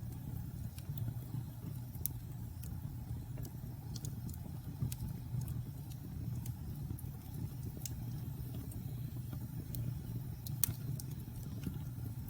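Wood fire burning in a fireplace: a steady low rumble of the flames with scattered, irregular crackles and pops from the logs, one sharper pop near the end.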